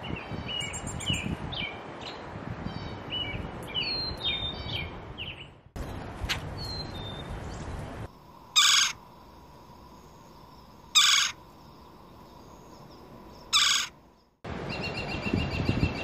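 Recorded calls of two different wild birds. First comes a quick series of short, high chirping notes over outdoor background noise. After a break comes a second bird giving three loud, harsh calls about two seconds apart.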